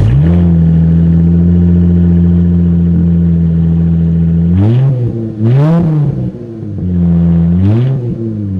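Dodge Challenger engine running with no exhaust system fitted, very loud, at a steady fast idle. About halfway through it is revved twice, the pitch rising and falling each time, then it settles back to idle.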